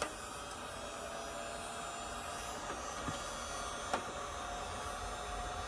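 Electric heat gun running: a steady blowing hiss with a faint motor whine. Two faint ticks come about three and four seconds in.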